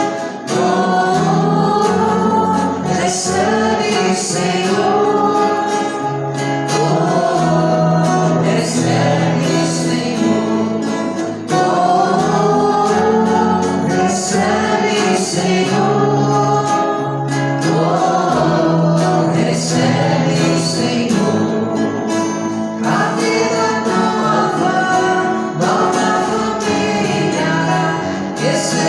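A group of voices singing a Portuguese Catholic offertory hymn, with instrumental accompaniment under it.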